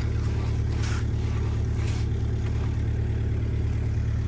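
An engine running steadily at constant speed, with two short hissing or scraping noises about one and two seconds in.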